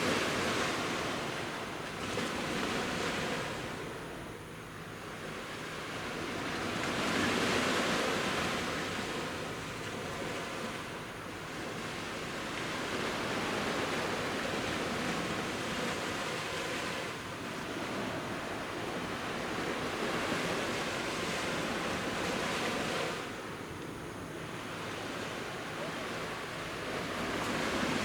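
Sea waves breaking and washing onto a beach, the surf swelling and easing every few seconds.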